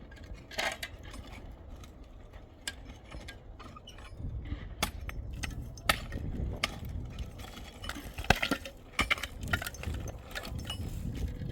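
Work sounds from a building job: irregular sharp clinks and knocks of hard objects, the loudest about six and eight seconds in, over a low rumble that grows from about four seconds in.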